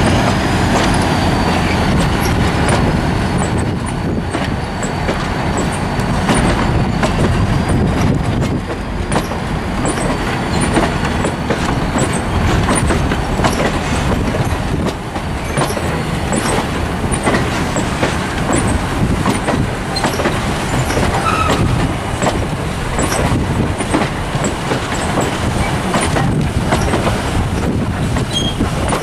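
Passenger coaches of a train rolling past close by on a curve: steady wheel-on-rail rumble with frequent clicks as the wheels cross rail joints, and a faint high squeal over the first ten seconds or so.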